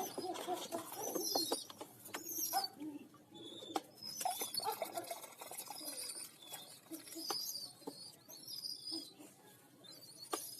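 Pigeon squabs giving repeated short, squeaky calls, mixed with lower pigeon sounds and scattered sharp clicks and taps.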